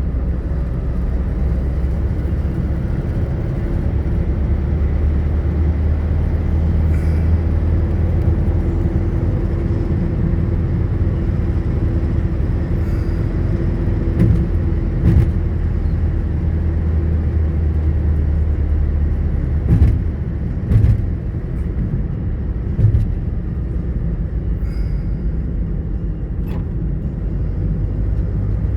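Steady low rumble of a motor vehicle's engine and road noise, with a few sharp knocks or pops in the second half.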